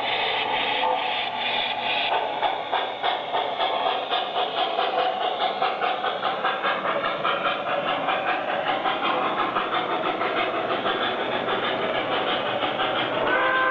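Lionel model train running on the layout, its locomotive's sound system giving a steady, rhythmic steam chuff of about four strokes a second.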